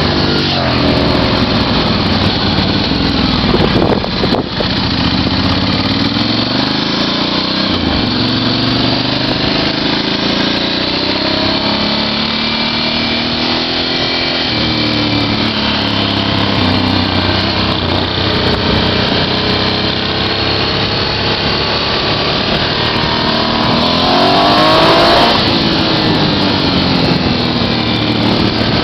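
Small motorcycle engine running under way, its pitch climbing and falling again and again as the throttle is opened and eased off through gear changes, with a louder rev near the end.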